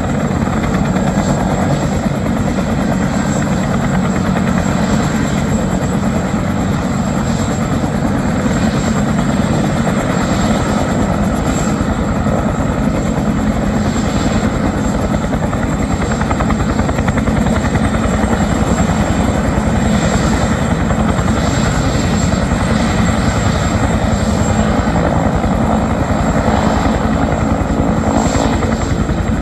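Military helicopter running steadily, its rotor beating in a fast, continuous chop with a thin high whine over it.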